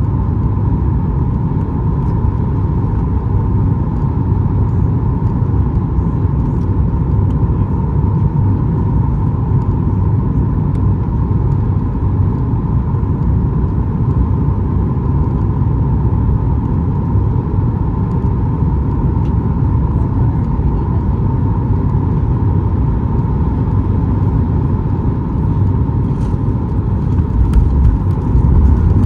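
Cabin noise inside a Boeing 737 MAX 8 airliner: a steady, loud rumble from its CFM LEAP-1B engines and airflow, with a constant hum. It grows louder near the end.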